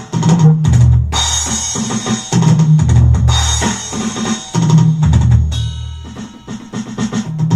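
Electronic drum beat played on a Roland SPD-30 Octapad: kick, snare and cymbal sounds over sustained low bass notes, easing off briefly near the end before picking up again.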